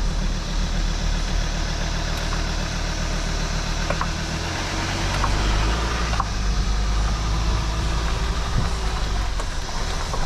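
A vehicle engine running steadily at low revs, under a steady rushing noise.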